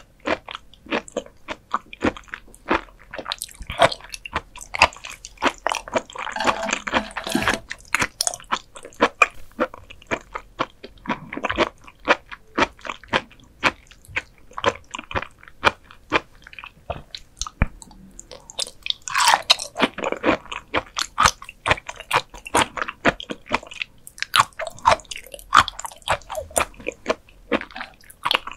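Close-miked eating of raw beef offal: a run of biting and chewing clicks, with denser chewing about six seconds in and again near twenty seconds.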